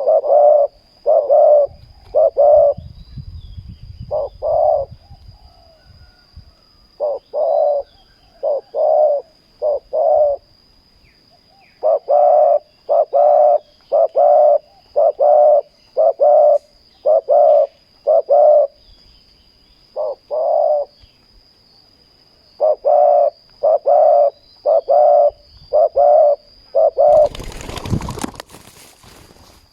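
Spotted dove cooing: runs of short, loud coos, about two a second, broken by brief pauses. A faint steady high whine lies underneath, and a brief loud rustling burst comes near the end.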